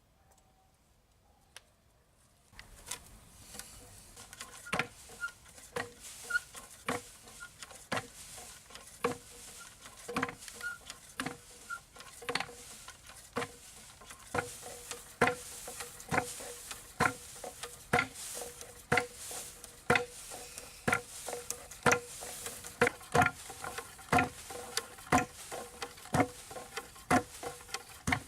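Repeated sharp taps or knocks, about one to two a second and growing more frequent, starting a couple of seconds in over a faint steady hum.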